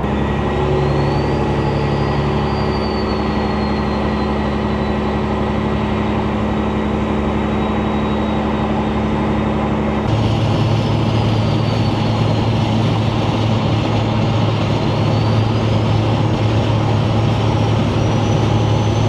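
Semi-truck diesel engine running steadily, heard from inside the cab. Its tone shifts abruptly about ten seconds in, and a faint high whistle rises and falls throughout.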